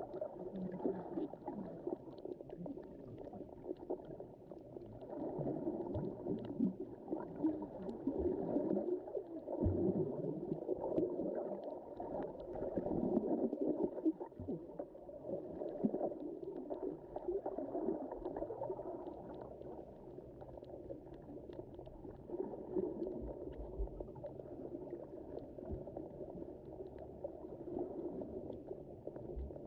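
Underwater ambience recorded in the sea: a muffled, steady rush of moving water that swells and eases with the waves, with faint scattered crackling ticks.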